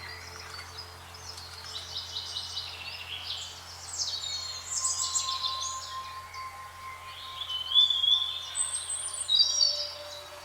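Several songbirds chirping and singing over one another in quick, overlapping phrases, loudest near the end, with a faint steady tone held underneath.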